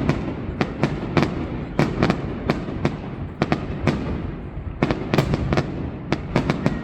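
Aerial fireworks display: many sharp bangs in quick, irregular succession over a continuous rumble.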